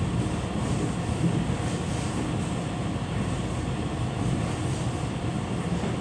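Passenger train running along the line, heard from inside: a steady low rumble of wheels and running gear with rail noise, even throughout.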